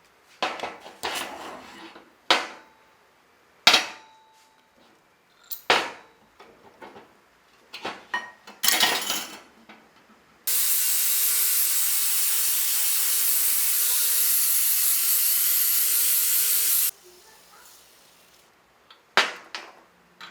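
A series of sharp knocks and clatters from tools and metal parts being worked and handled. About halfway through, a loud, steady hiss with a faint low hum starts suddenly, runs for about six seconds and cuts off. A single knock follows near the end.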